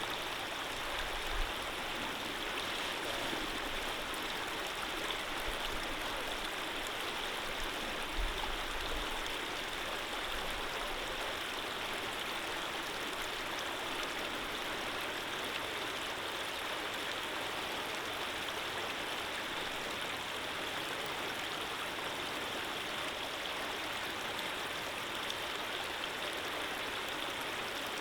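Stream water running steadily, an even rushing hiss that does not change, with a few soft low bumps in the first ten seconds.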